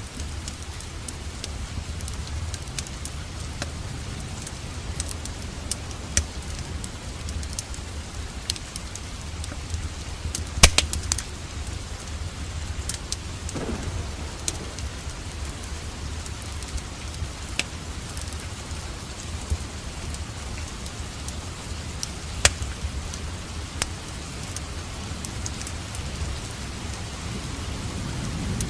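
Steady rain with a low rumble underneath and scattered sharp crackles of a wood fire, the loudest about ten seconds in.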